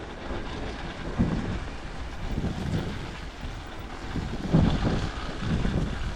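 A KTM 300 XC's two-stroke single-cylinder engine running on a trail ride, surging unevenly with the throttle. Wind buffets the microphone.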